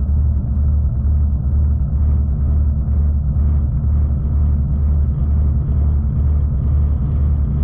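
V/Line passenger train running along the track, heard from inside the carriage: a steady low rumble with a faint, even pulsing underneath.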